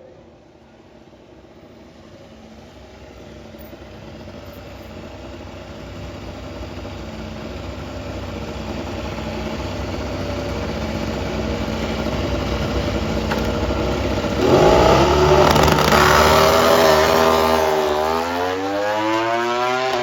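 Racing motorcycle engines growing steadily louder. About fourteen seconds in they give a sudden loud surge of hard acceleration, the pitch climbing and stepping through gear changes, as in a practice race start.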